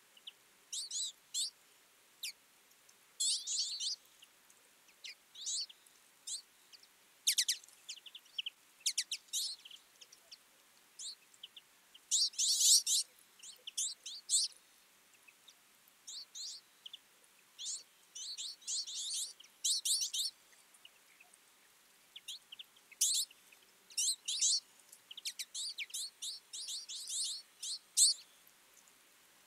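A flock of twite calling and twittering: short, high, nasal chirps in quick clusters, coming in repeated bursts with brief gaps between them.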